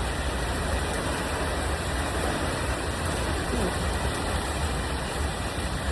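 Heavy rain pouring down: a steady, even hiss with a low rumble underneath.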